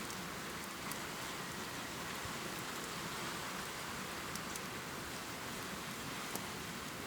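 Steady heavy rain pouring, with scattered sharper drop ticks, one of them standing out near the end.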